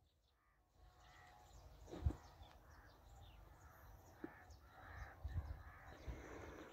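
Faint bird calls repeating about once a second, with low bumps from the handheld phone; the loudest bump comes about two seconds in.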